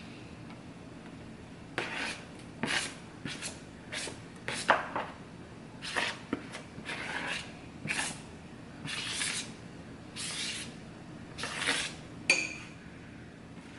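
A utensil scraping shredded chicken out of a dish into a crock pot: about a dozen short, separate scrapes.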